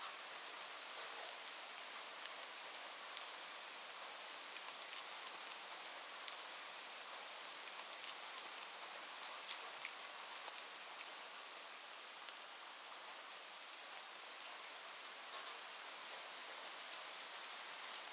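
Steady rain: a soft, even hiss dotted with scattered sharp ticks.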